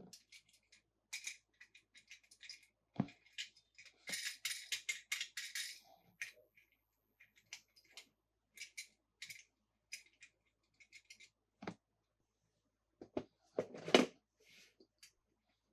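Plastic toy packaging being handled and opened: a run of crisp clicks and crinkles, with a dense stretch of crinkling about four seconds in and a few sharp knocks, the loudest near the end.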